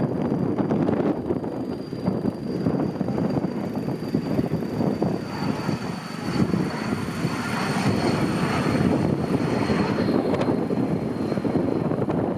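Aircraft engine whine, a thin high tone that slowly falls in pitch, under heavy wind buffeting the microphone.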